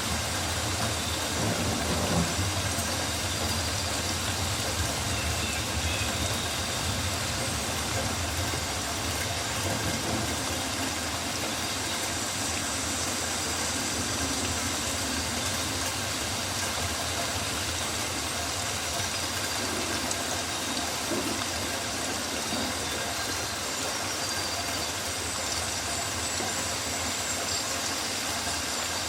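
Rainforest ambience: a steady hiss of rain falling on foliage, with some low rumbling in the first couple of seconds.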